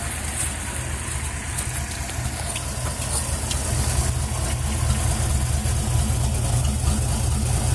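Ford Falcon Futura's 170 cubic inch straight-six, with an aftermarket header and a new Holley one-barrel carburettor, idling smoothly once warmed up. It gets a little louder about halfway through.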